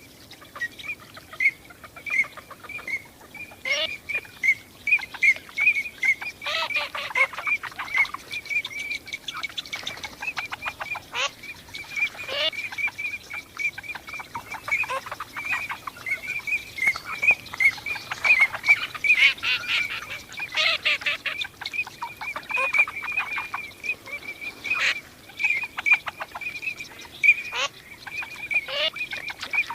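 A flock of Eurasian teal calling: a constant run of short high whistles, with bursts of quicker, harsher calls several times.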